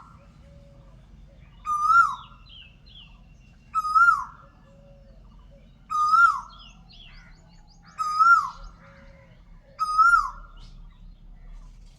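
A bird call repeated five times at even two-second spacing: a short held whistle that drops sharply in pitch. Fainter chirps sound between the calls over a low steady hum.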